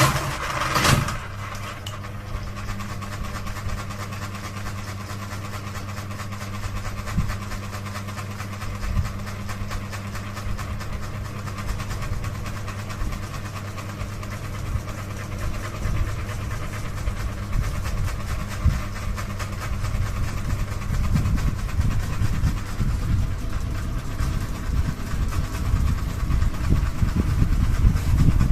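Wobbling ceiling fan running with a steady motor hum. An uneven low rumbling and knocking from the wobble grows louder over the last third.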